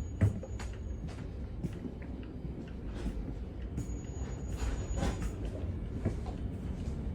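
Stockholm commuter train running: a steady low rumble with irregular clicks, rattles and knocks, a sharp knock just after the start, and a thin high whine heard twice.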